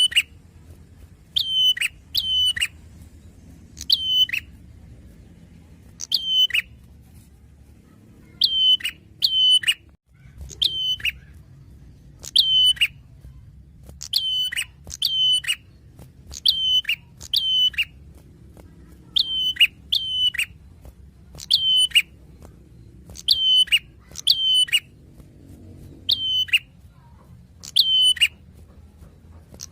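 Prinia (prenjak) calling over and over: sharp notes that sweep down in pitch, given singly or in quick pairs about every second or so.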